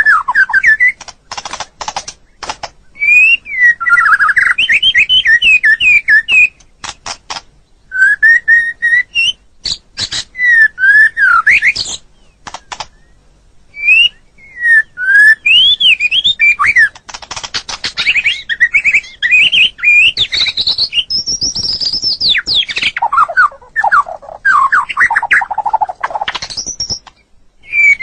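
White-rumped shama singing: loud, varied phrases of fluty whistles that slide up and down, mixed with quick runs of sharp clicking notes, broken by short pauses.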